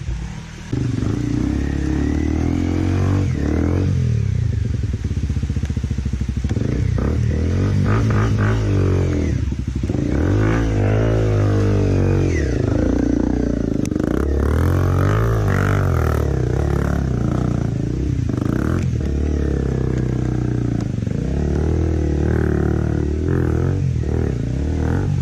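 Enduro dirt bike engine revving up and down in pitch as the bike is ridden, picking up loudly about a second in.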